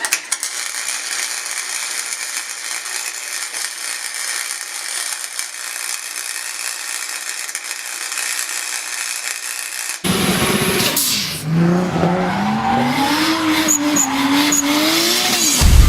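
A steady hiss for about ten seconds, then a car engine revving up and down over tyre noise, typical of drifting.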